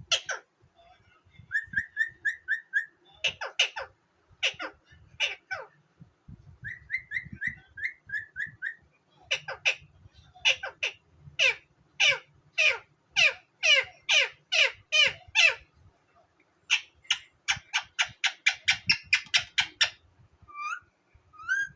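Pet parrot calling: runs of short chirps, then a long series of sharp whistled notes that each sweep down in pitch, about two a second, and a quicker run of notes near the end.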